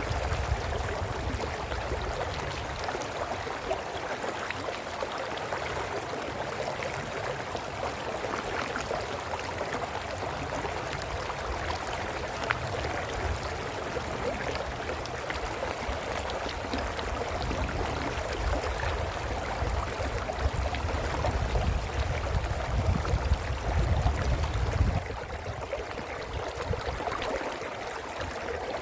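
A brook's flowing water babbling steadily. Under it a low rumble comes and goes, swelling in the second half and cutting off suddenly near the end.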